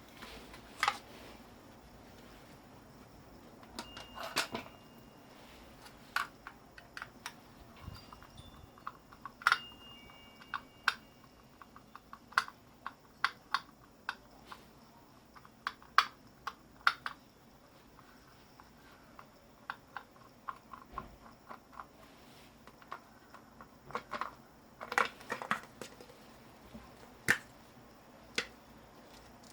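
Hand tools and scrap motor parts knocking and clicking at irregular intervals as an electric motor is taken apart by hand for its copper. A few of the knocks leave a brief metallic ring.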